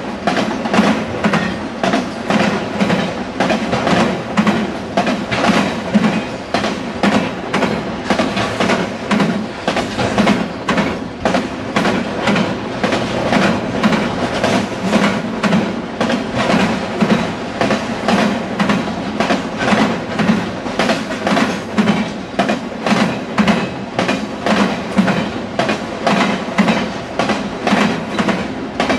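Freight train of autorack cars rolling past at speed, its wheels hammering over a rail crossing diamond in a steady, rapid clatter of repeated impacts over a continuous rumble.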